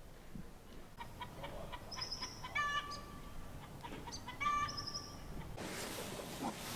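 A bird calling twice, each time a short high note and then a pitched, stuttering call. Near the end a broad rushing noise sets in.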